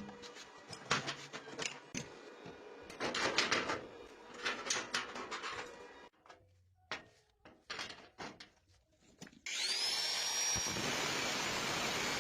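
Workshop tool sounds: irregular knocks and clatter, then about nine and a half seconds in a power tool starts suddenly and runs steadily, with a whine that rises and then holds.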